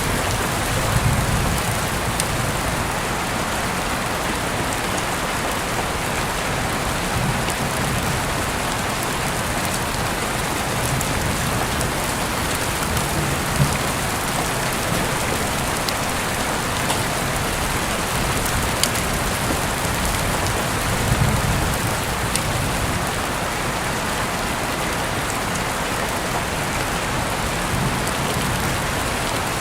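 Heavy rain falling steadily, an even hiss with a few sharp individual drop ticks and some soft low swells.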